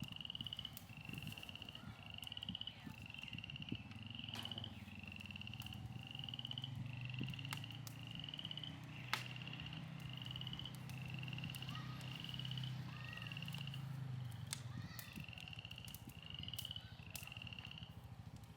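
An animal calling with a steady series of short trilled chirps, about two a second, with brief pauses, over a low hum and a few faint clicks.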